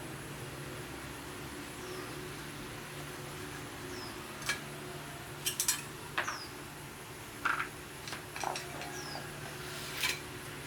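Scattered metal clinks and knocks of tools and parts being handled, a few at a time, over a steady low hum.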